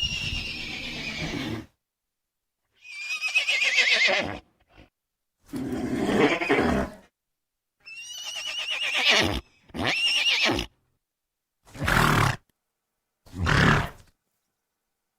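Horse neighing: about seven separate calls with silent gaps between them. The first call and the one about eight seconds in are long, high, quavering whinnies; the others are shorter and lower.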